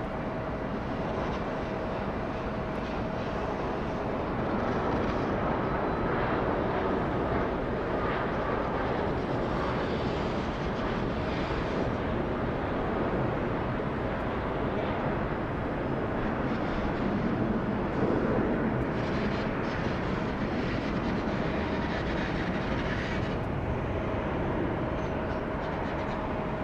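Jet airliner engine noise near the runways: a steady rumble that swells a little partway through and again later, with a faint steady whine.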